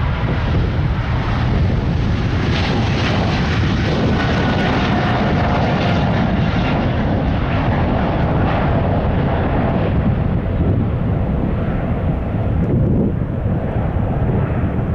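Jet airliner engines at take-off thrust: a loud, steady rumble with a faint whine, its upper part dying away in the last few seconds as the aircraft draws off.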